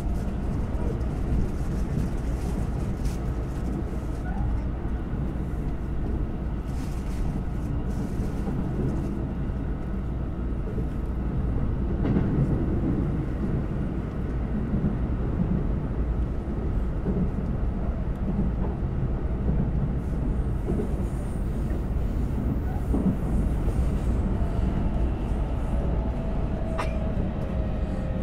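Running noise heard inside a Keikyu 2100 series electric train car: a steady rumble of wheels on rail. A faint whine falls in pitch near the end.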